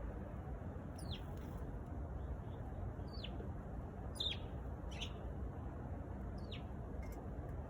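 Eurasian tree sparrow chirping: five short chirps, each sliding down in pitch, spaced about a second apart, over a steady low background rumble.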